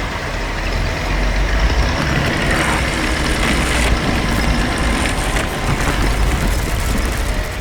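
Heavy engine running, a deep rumble with a dense rattling noise over it.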